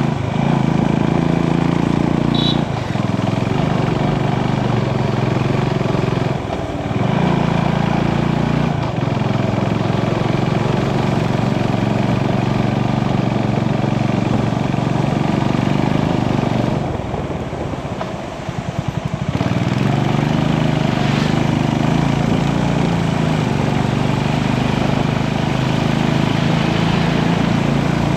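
Motorcycle engine running under way, a steady drone that dips briefly a few times in the first ten seconds, as at gear changes. About two-thirds through it eases off to a slow low putter for a couple of seconds, then pulls steadily again.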